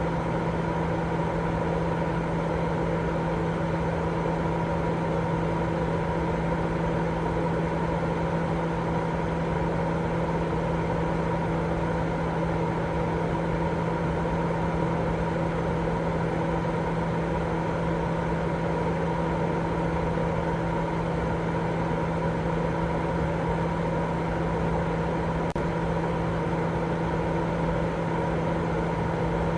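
Continuous sleep-aid noise for babies: a steady, unchanging rush with a low hum running through it.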